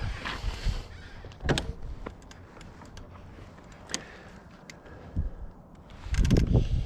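Scattered small clicks and handling noises from a drink bottle being handled and drunk from, with a louder rustle near the end.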